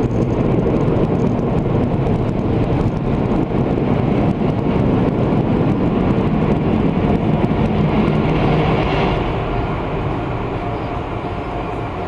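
Automatic tunnel car wash machinery heard from inside the car: a loud, steady rushing roar that eases off after about nine seconds.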